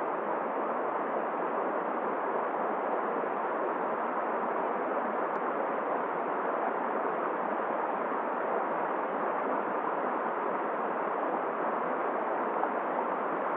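Steady rushing noise of a cold river flowing under blizzard wind, unchanging throughout.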